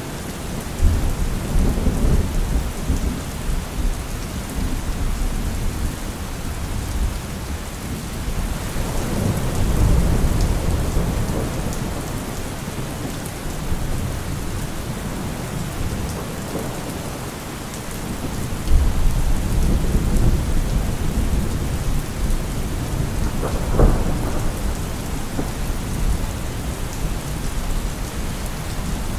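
Heavy rain falling steadily, with thunder rumbling low several times and a brief sharper crack about two-thirds of the way through.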